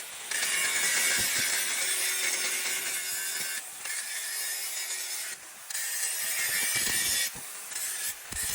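Hand-tool rasping against a workpiece in long strokes of one to three seconds, broken by short pauses, like sawing or filing.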